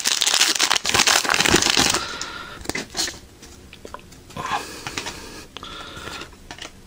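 Foil trading-card pack wrapper being torn open and crinkled for about two seconds, followed by quieter rustling and light clicks of cards being handled.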